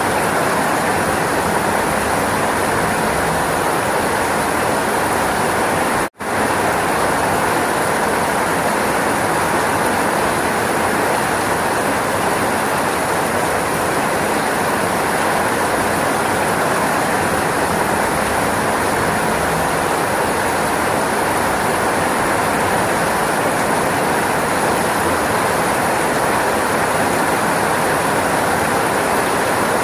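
Steady rainfall, a dense even hiss, which cuts out for an instant about six seconds in before resuming unchanged.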